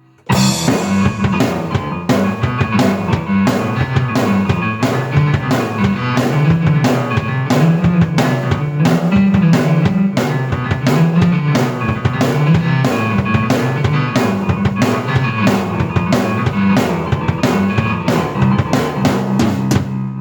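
Drum kit and keyboard played at once: a steady driving beat of kick drum, snare and cymbal strikes over a moving low keyboard line. It starts abruptly after a short break at the beginning.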